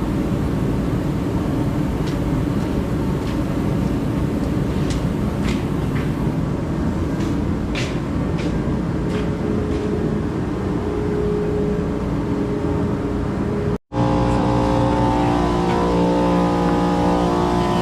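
A motor vehicle's engine running steadily with heavy rumble, a few light clicks over it; after an abrupt cut about 14 seconds in, a steady engine hum with a clear pitch takes over.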